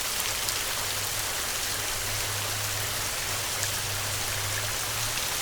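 Heavy rain falling steadily, a dense, even hiss of drops. A faint low rumble sits beneath it from about a second in until near the end.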